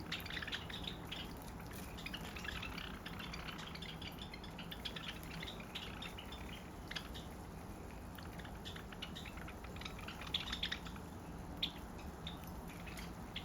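A flock of Java sparrows making scattered short chips and ticks, a few a second, some louder ones clustered about ten seconds in.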